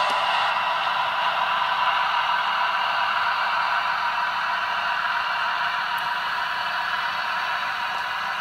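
00-gauge model diesel locomotive running on a DCC sound decoder: a steady, hissy engine drone from its small onboard speaker, with the rattle of wheels on track, gradually getting quieter.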